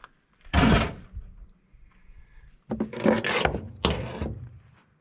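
Parts of an air-conditioning unit being handled while it is taken apart: a loud clunk about half a second in, then scraping and clattering from about three seconds in.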